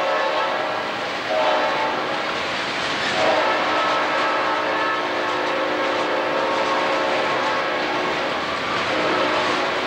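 Freight train of enclosed auto-rack cars rolling past: steady noise of steel wheels on rail, with a sustained ringing tone that shifts pitch a few times.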